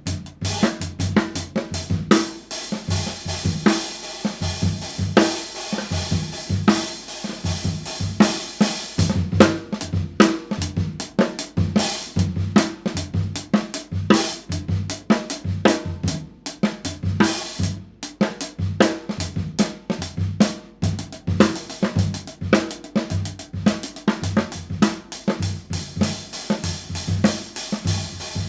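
A drum kit played in a continuous groove featuring a pair of 16-inch handmade B20 bronze paper-thin hi-hat cymbals, with kick drum and snare strokes alongside.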